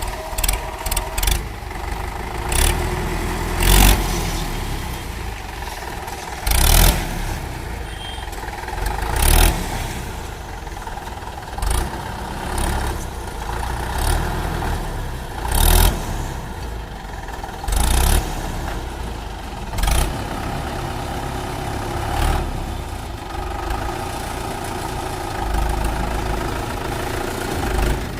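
Mahindra 575 DI tractor's four-cylinder diesel engine running steadily, with short loud bursts of noise every two to three seconds.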